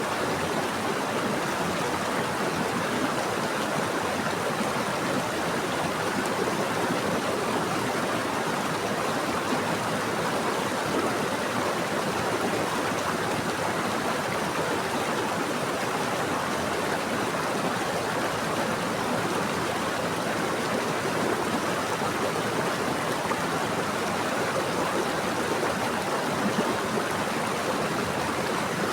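Running water: a stream or small waterfall flowing steadily in an even, unbroken rush.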